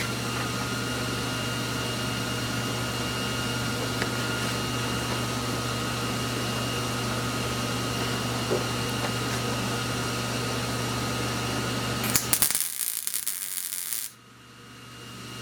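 A shop power tool running steadily, with a low hum and a faint constant whine. Near the end comes a loud, harsh, hissing burst of about two seconds, which cuts off abruptly.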